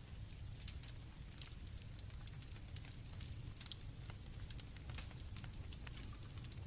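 Campfire crackling, with scattered sharp pops over a low rumble, and crickets chirping steadily at a high pitch.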